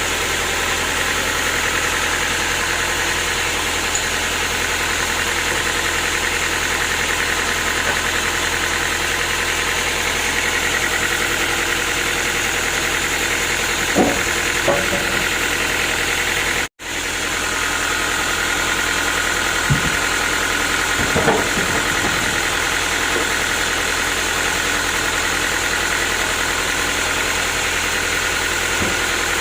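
Sawmill machinery running steadily, with a few short knocks partway through. The sound cuts out for an instant just past the middle.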